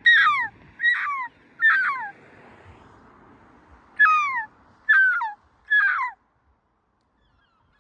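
Seagulls calling: six loud downward-sliding cries in two sets of three, a pause of about two seconds between the sets.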